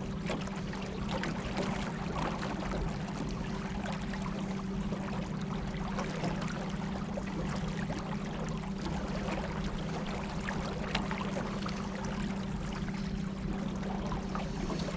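Electric trolling motors humming steadily while water splashes and gurgles along the hull.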